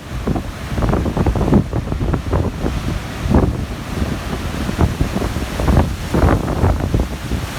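Strong gusty wind of an approaching typhoon buffeting the microphone: a loud, low rumble with irregular blasts every second or so.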